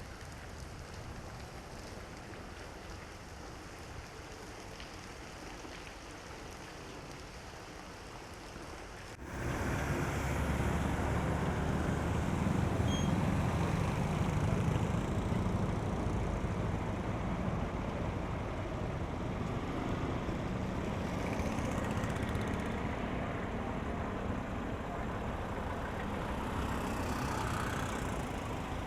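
Steady hiss of heavy rain, then, after a sudden cut about nine seconds in, a louder, lower mix of rain and road traffic: vehicles rumbling along wet streets.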